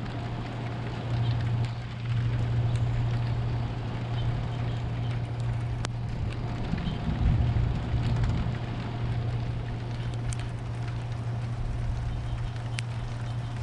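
Thunderstorm: a low rumble of thunder that swells about seven seconds in, over an even hiss scattered with faint ticks and a steady low hum.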